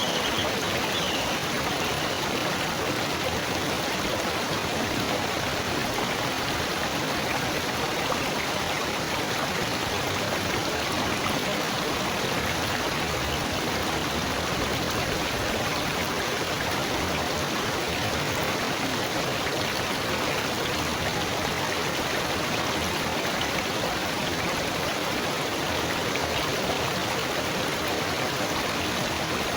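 Water babbling and trickling steadily, like a small stream, with no change in level.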